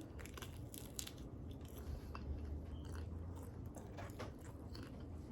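Close-miked chewing and biting into crispy air-fried lemon pepper chicken wings, with scattered crunches and crackles of the skin over a low steady hum.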